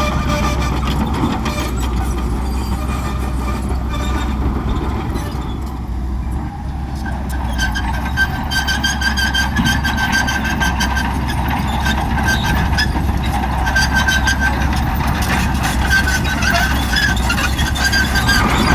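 Shantui crawler bulldozer working, its diesel engine running steadily with a deep drone. About seven seconds in, a high squeal and rapid clicking join the engine noise.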